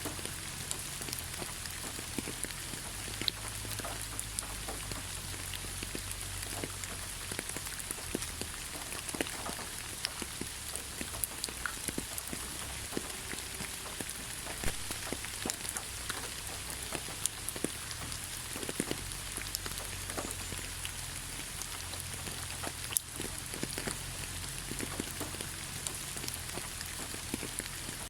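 Steady rain falling in a forest: an even hiss of rainfall with many individual drops ticking irregularly close by.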